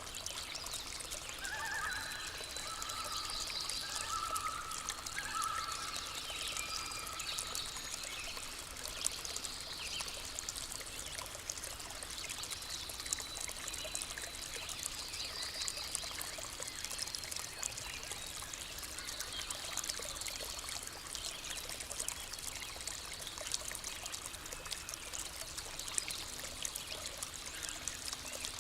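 Water of a small stream trickling and splashing steadily, with birds calling over it: a few short lower chirps in the first few seconds, and high trills and thin whistles repeating throughout.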